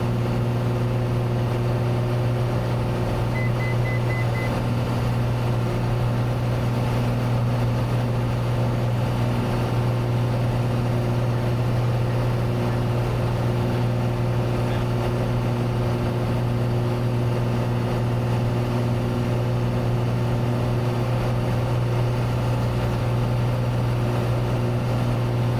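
Cessna 182T's six-cylinder Lycoming IO-540 engine and propeller droning steadily under climb power after takeoff, a constant low hum with no change in pitch.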